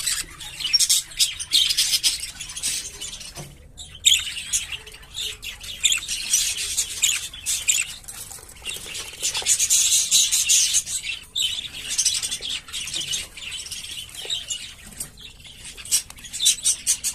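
A flock of English (show-type) budgerigars chattering and warbling: a dense run of rapid high chirps with a couple of brief lulls.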